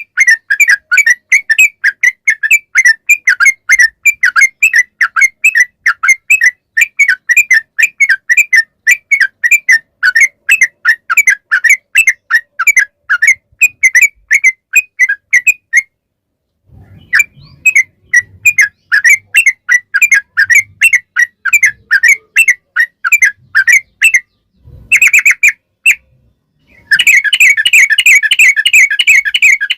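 Yellow-vented bulbul (trucukan) singing a long, rapid run of bubbly whistled notes, several a second. The song breaks off for about a second just past halfway and again briefly near the end before resuming.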